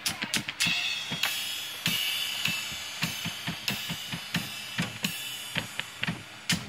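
Drum kit played during a sound check: quick kick and snare hits, with several cymbal crashes ringing out and fading between them.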